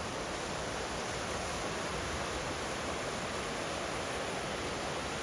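Steady, even rush of a river's flowing water heard from the trail above it.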